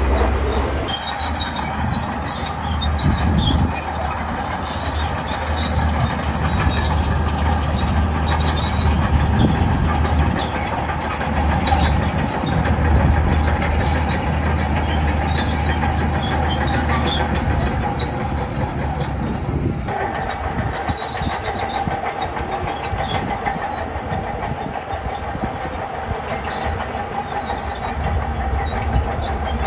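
Shantui crawler bulldozer working: its diesel engine running steadily under load while the steel tracks clank and squeal, with scattered small metallic clicks.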